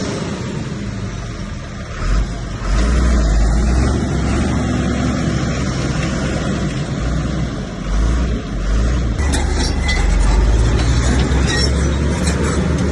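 Heavy diesel earthmoving machinery running with a deep steady rumble that grows louder a couple of seconds in. From about nine seconds in there is a stretch of many short sharp knocks and clatters.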